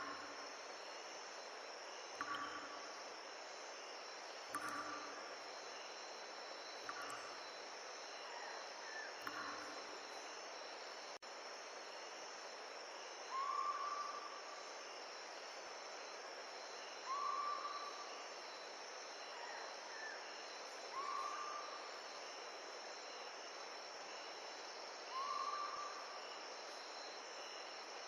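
Steady chorus of insects such as crickets trilling, with a short call near the same pitch repeating every two to four seconds; the calls in the second half are louder.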